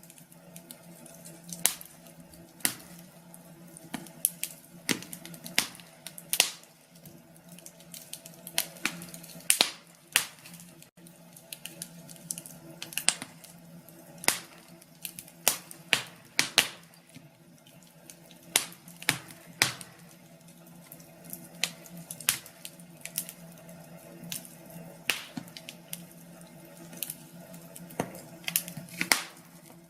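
Wood fire in a fireplace crackling: irregular sharp pops and snaps at uneven intervals, over a low steady hum.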